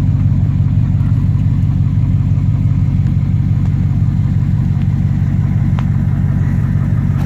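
Chevrolet Avalanche's V8 engine idling steadily, an even low rumble that does not change.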